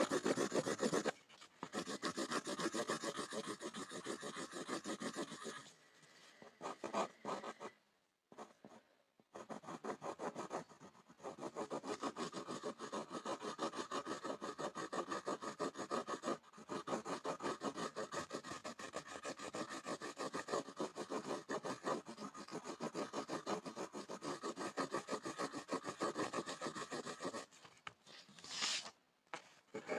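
Pencil scribbling on a board: fast back-and-forth scratching strokes that stop briefly a few times, with a longer pause about eight seconds in and another near the end broken by one short burst.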